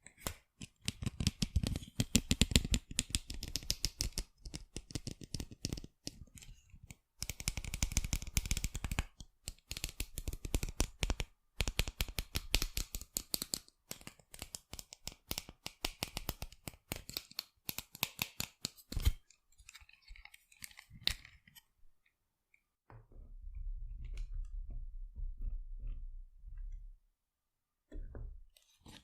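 Fingernails tapping rapidly on sunglasses in fast runs of sharp clicks, with short pauses between runs; the tapping thins out after about two-thirds of the way. A low steady hum runs for a few seconds near the end.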